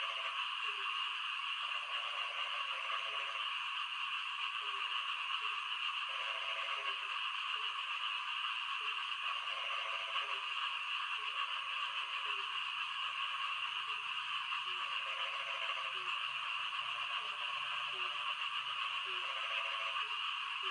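Frogs croaking over and over in short pulsed calls, roughly one a second, over a steady hiss of rain.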